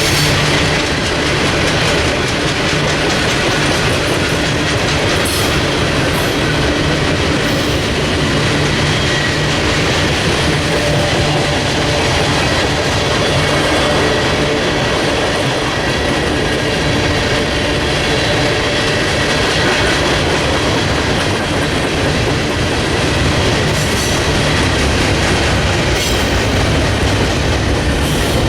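A long train's cars rolling past at steady speed, wheels clicking over the rail joints, with a faint thin squeal from the wheels on the rail.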